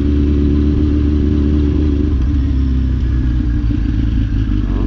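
Motorcycle engine running steadily while riding, its pitch shifting about two seconds in, over a heavy low rumble.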